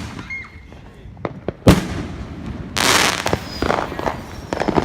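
Fireworks going off: a sharp bang about a third of the way in, then a hissing burst of about half a second a little past the middle, followed by a scatter of smaller crackling pops.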